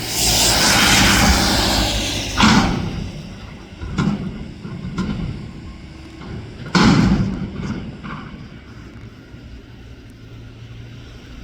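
Mack garbage truck with a McNeilus front-loader body at work. Its engine runs steadily underneath, a loud rushing surge fills the first couple of seconds, and four heavy bangs and thumps follow, typical of a steel container being handled and emptied.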